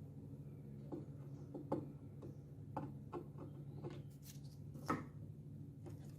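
Irregular light clicks and taps, about eight over several seconds, from small objects or tools being handled on a work surface, over a steady low hum.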